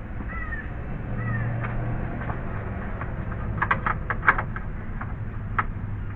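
Crows cawing, two short calls in the first second and a half. A quick cluster of sharp clicks and knocks follows around the middle, with one more knock shortly before the end.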